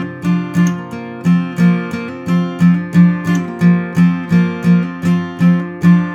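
Acoustic guitar strummed in an even rhythm, about three strokes a second, with no vocals: the instrumental outro of a country-folk song.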